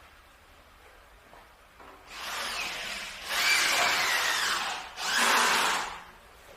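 A power tool running in three bursts, starting about two seconds in; the second and third bursts are the loudest.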